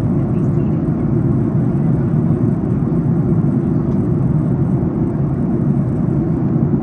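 Steady cabin noise of a Boeing 737 MAX 8 airliner in flight: a deep, even rush of airflow and CFM LEAP-1B engine noise heard from an economy seat during the initial descent.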